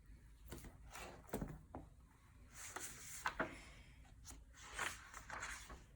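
Faint rustling and a few light taps from a picture book being handled, its pages turned, with soft noise patches about halfway through and near the end.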